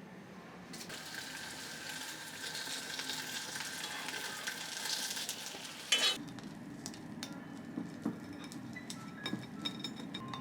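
Food sizzling in a frying pan: a steady hiss that cuts off abruptly about six seconds in. After it come light clinks and taps of dishes and utensils.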